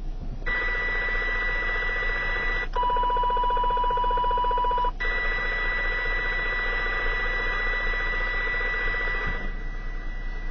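RF interference heard through a CB radio receiver on channel 29: a steady high electronic tone over hiss. About two and a half seconds in it switches for about two seconds to a lower tone with a fast pulsing buzz, then goes back to the high tone until it fades near the end. The uploader matches the pattern to interference from an LED plant grow light.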